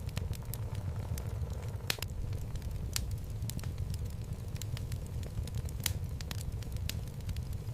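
Wood logs burning in a home fireplace: frequent irregular sharp crackles and pops over a steady low rumble of the fire, with the loudest snaps about 2, 3 and 6 seconds in.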